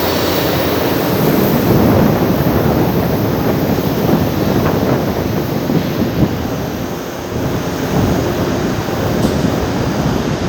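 São Paulo Metro train running along the station platform: a loud, steady rumble and rush of wheels and traction motors.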